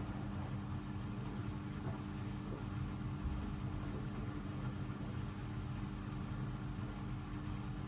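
Hoover DXOA610AHFN-80 washing machine running mid-wash on a 60°C Mixed cycle: a steady motor hum with a few constant low tones.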